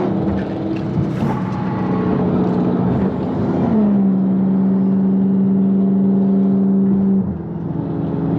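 Muscle car's V8 engine droning at a steady pitch while cruising, the note gliding slightly lower about three and a half seconds in and then easing off near the end.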